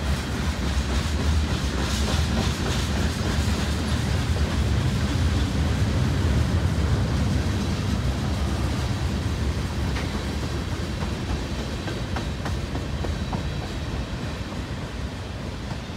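Freight cars of a mixed manifest train rolling past at speed: a steady low rumble of steel wheels on the rails, with occasional clicks. The sound eases off a little in the last few seconds.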